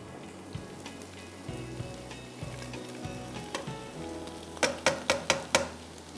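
Chopped onion and scrambled egg sizzling in hot oil in a non-stick wok while being stirred with a spatula. About four and a half seconds in come five or six quick, sharp knocks as chopped carrots are tipped into the wok from a metal cup.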